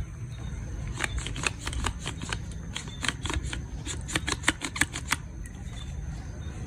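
A quick run of light, sharp clicks and rattles, like small plastic toy parts being handled, lasting about four seconds before stopping. A low hum sits underneath.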